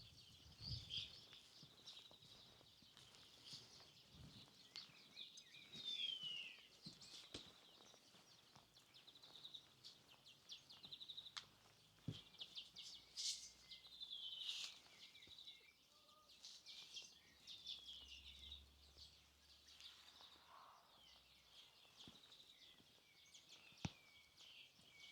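Faint birds chirping and twittering throughout, with short falling whistled notes, over a near-silent background with occasional soft taps.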